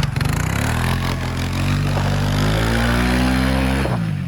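A vehicle engine running hard and revving, its pitch climbing in steps, then easing off sharply just before the end.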